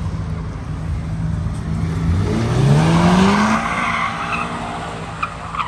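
Car engine idling, then revving hard about two seconds in, its pitch climbing for about a second with a loud rush of tyre noise at the peak, before easing back to a lower steady run.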